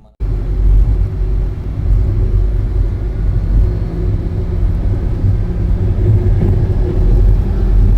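Vehicle travelling along a road: a steady low rumble of engine and road noise with a faint constant hum.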